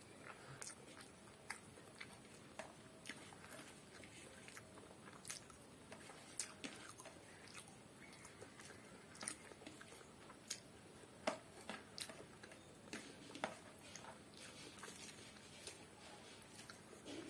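Faint close-up eating sounds: chewing of rice and curry eaten by hand, with scattered short, sharp clicks from the mouth and from fingers working the rice on the plate.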